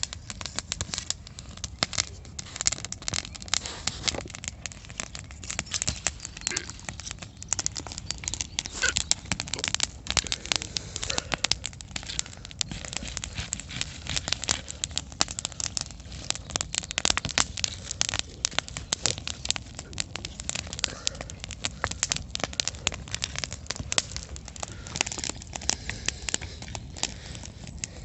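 Campfire burning, crackling with dense, irregular sharp pops and snaps over a low steady rumble of the flames.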